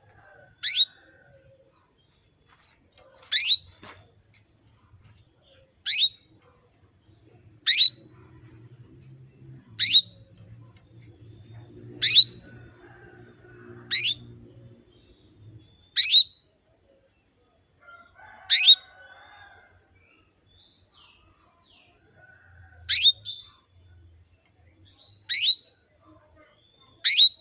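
Female canary calling: a sharp, high chirp sweeping quickly downward, repeated about every two seconds, twelve times in all, with short quick twitters between some calls. It is the contact call of a hen in breeding condition calling for a male.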